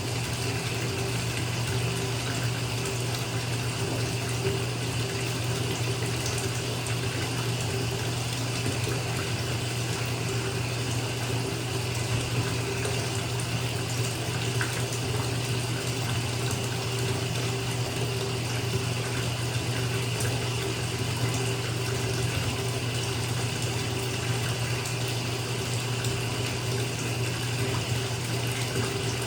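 Bathtub tap running steadily, water pouring into a filling tub, with a low steady hum beneath it.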